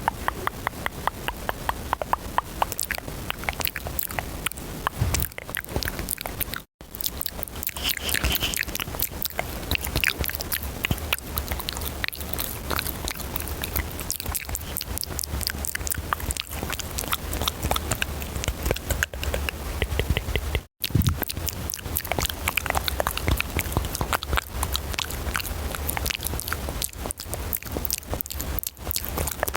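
Fast, aggressive ASMR mouth sounds close to the microphone: rapid wet clicks and smacks of the tongue and lips, over a steady low hum. Two brief drop-outs break it, about a quarter and two thirds of the way through.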